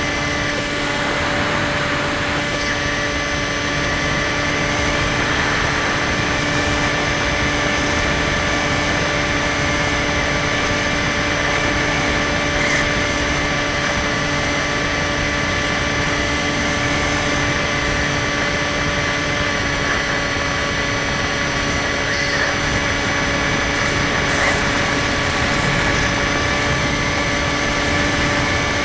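Electric motor and propeller of a Skywalker 1680 RC plane running at a steady throttle, a constant whine of unchanging pitch over a hiss of rushing air.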